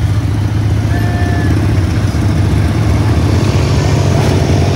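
Riding lawn mower engine running steadily at a fast idle, a low, choppy rumble with no change in speed.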